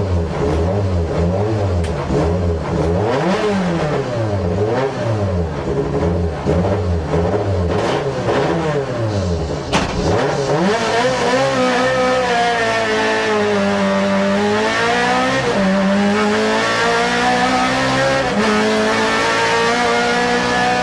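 Rally car engine heard from inside the cabin, revved up and down about once a second while the car waits at the start. About halfway through there is a sharp click, and the car pulls away, its engine rising in pitch and dropping at each gear change as it accelerates along the stage.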